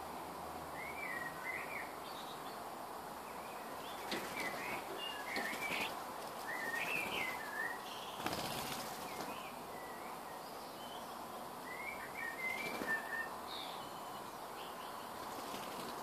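Garden birds calling in short, wavy chirping phrases, several times over, with brief flutters of wings as birds land and take off around the feeding spot.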